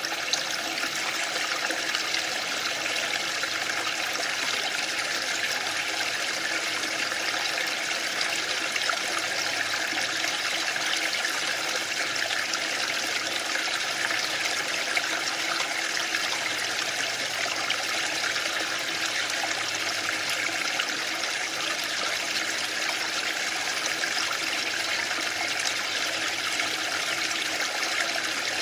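Waterfall: falling water rushing in a steady, unbroken hiss with no swells.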